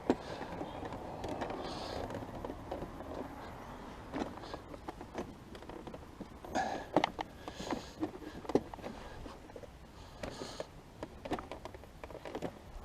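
Hands working the rear body panel and its fittings on a Can-Am Spyder: irregular clicks, taps and knocks over rustling, with a few sharper knocks around seven to nine seconds in.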